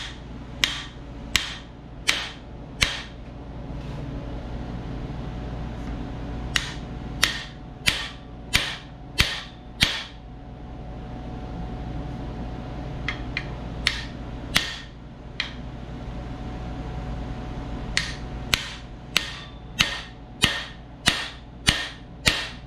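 Hammer blows on a cam bearing installer's driver bar, tapping a new camshaft bearing into a small-block Chevy 350 block's cam bore. Sharp metallic strikes come in runs of five to seven, about one and a half a second, with short pauses between runs, over a steady low hum.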